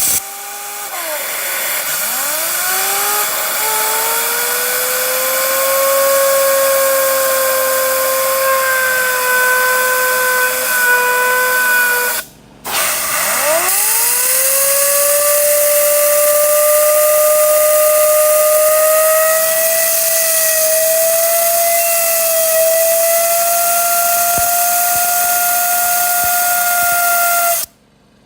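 A Mercedes Sprinter T1N turbocharger, off the engine, spun up by a rush of air: a whine that rises quickly and then holds steady over the hiss, twice, with the second spin-up higher in pitch. The turbo is suspected of having damaged vanes.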